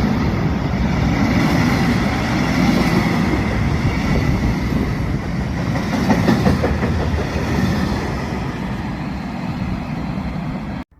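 Freight train hauled by an electric locomotive running past, its wagons rolling steadily on the rails. The sound cuts off abruptly near the end.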